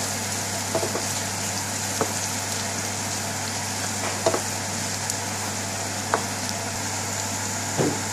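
Sliced onions, garlic and spices frying in ghee in an aluminium frying pan, a steady sizzle. A wooden spoon stirring the mixture knocks against the pan every second or two.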